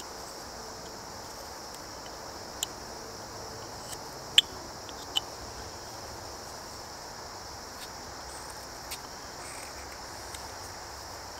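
Insects chirring steadily in a high even band, with a few short sharp clicks of a carving knife cutting into a basswood block, the loudest a little before halfway.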